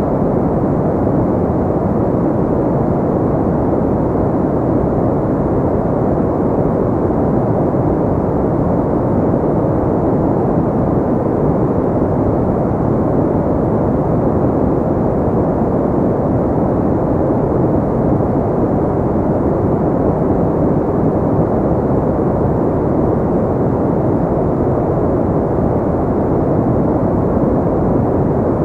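Steady, unchanging noise for sleep, deep and rushing with little treble, like brown noise rather than bright hiss.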